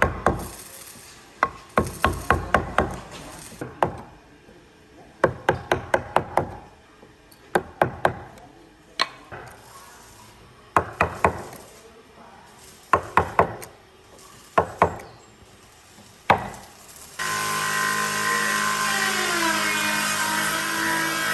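Short bursts of quick hammer blows on wood, three to six strikes at a time every second or two. About seventeen seconds in, a power tool starts up abruptly and runs loudly and steadily.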